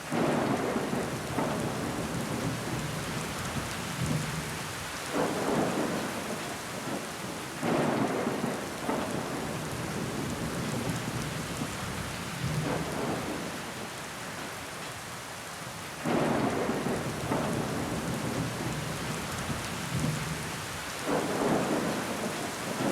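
Steady rain falling against a window, a dense even hiss, broken every few seconds by deep swells that rise suddenly and die away over a second or two, like distant thunder or gusts of heavier rain.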